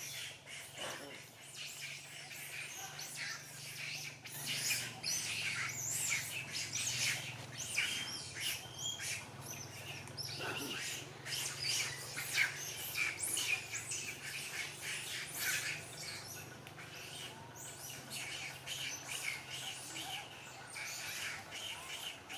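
A dense, busy chorus of short, high-pitched squawks, squeaks and chirps overlapping throughout, with a faint steady low hum underneath.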